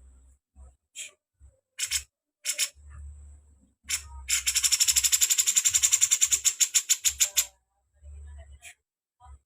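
Songbird giving short, dry, high-pitched chattering notes, then a fast rattling trill of about a dozen notes a second lasting some three seconds.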